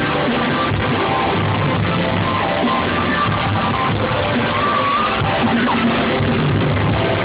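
Live pop concert music played loud over a hall's sound system, with singing and yells from the crowd. The sound is dense and dull, with nothing above the middle-high range.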